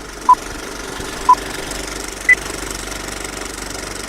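Electronic beeps a second apart, two at one pitch and a third an octave higher, like a countdown tone, over a steady engine hum.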